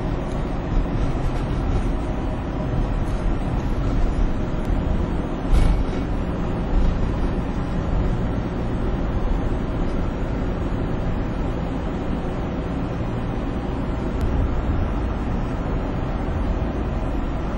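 Steady rumble of a van's engine and tyre noise on the highway, heard from inside the cabin, with one short knock about five and a half seconds in.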